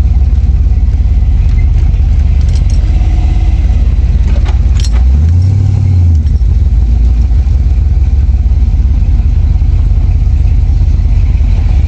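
A car engine drones steadily with road noise while driving. About five seconds in the engine briefly rises and falls in pitch, and a few light clicks are heard.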